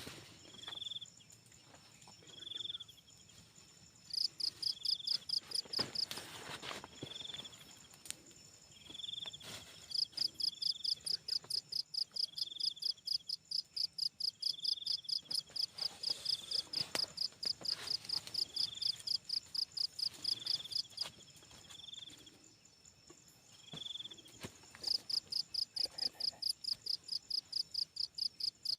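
Insects chirping: trains of rapid, high, pulsed chirps of about four to five a second, each train lasting several seconds with pauses between. Under them a second, slightly lower chirp repeats about once a second throughout.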